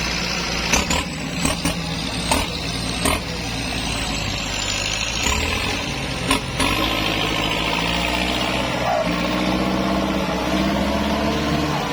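Kubota tractor's diesel engine running steadily, with several sharp knocks or clicks during the first seven seconds.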